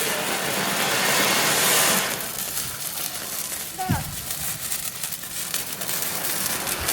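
A lit firework hissing loudly for about two seconds, then crackling and sputtering as it burns.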